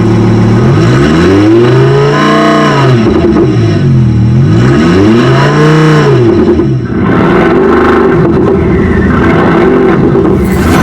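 Synthetic engine note from the active exhaust sound system of a Xiaomi SU7 electric car in its sport setting. It revs up and falls back twice, peaking about two and a half and five and a half seconds in, then runs on as a rougher, uneven note.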